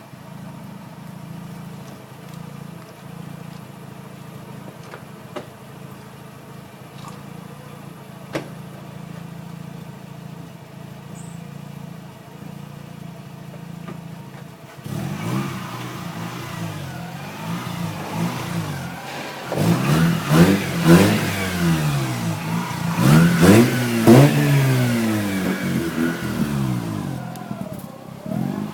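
Mazda RX-8's twin-rotor rotary engine through an aftermarket catback exhaust, idling steadily for about fifteen seconds, then revved over and over, each rev rising and falling, loudest past the middle, with a few sharp pops among the revs.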